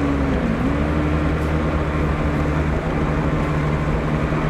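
Racing motorcycle engines running steadily out on the circuit during the race. One engine's pitch dips briefly about half a second in, then holds.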